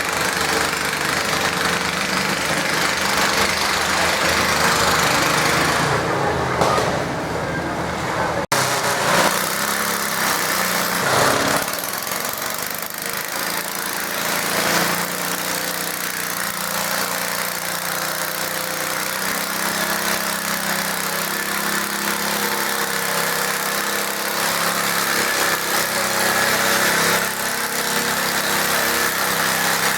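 Garden tractor engine running, with a sudden brief cut about eight seconds in, after which the engine sound carries on with a different character.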